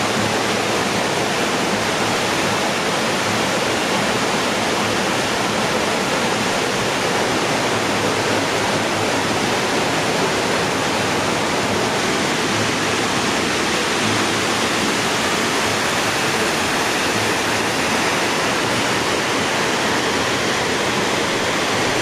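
Creek water rushing, a loud steady rush.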